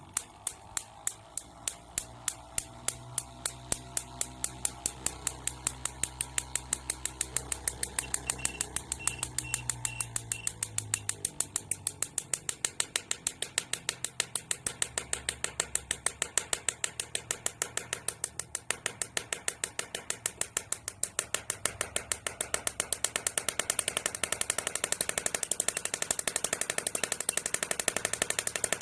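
High-voltage sparks snapping in a regular rhythm on a home-modified fan, the snaps getting gradually faster, over a low motor hum that fades about halfway through.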